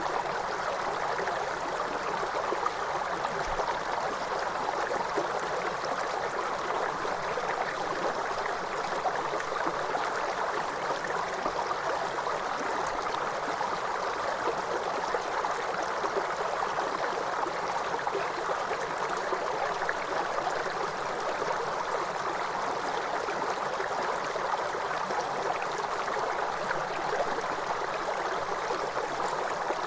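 Steady rush of falling water from a cascading waterfall, an even noise without breaks or changes.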